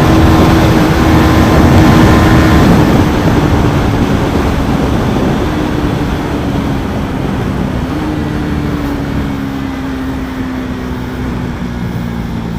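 KTM Duke 390 single-cylinder engine running hard under way, its pitch slowly falling as the revs drop off, with one step up in pitch about eight seconds in. Steady wind and road noise run along with it.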